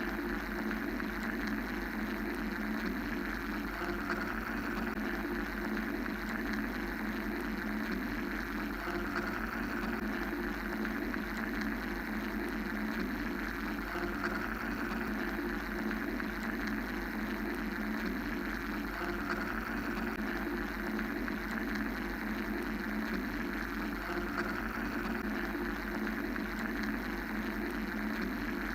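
Steady mechanical white noise: a droning, even hiss made of separate bands, a low hum and a middle band. The band higher up slowly swells and fades a few times.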